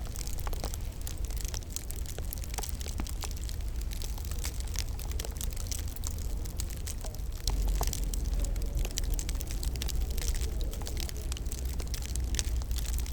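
Wood fire crackling in a fireplace: frequent small irregular pops and snaps over a steady low rumble of the flames, which grows louder about halfway through.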